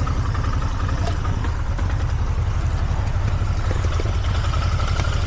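A motor vehicle's engine running steadily at low revs, a constant low rumble with a faint steady whine above it.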